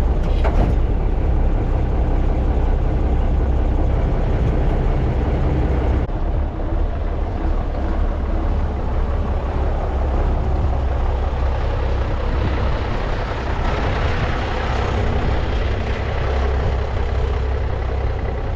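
Cummins diesel engine of an old Brockway truck running steadily as the truck is driven. Its note fills out somewhat about twelve seconds in.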